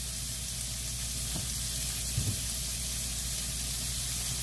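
Battered shrimp deep-frying in hot oil in a small wok pan: a steady sizzle.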